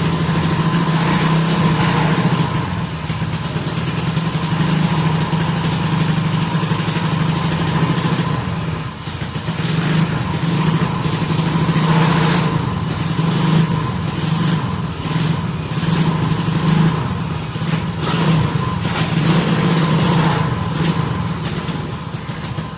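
100cc four-stroke single-cylinder petrol engine on a test rig running steadily, exhausting through its silencer, with a brief dip in loudness about a third of the way in.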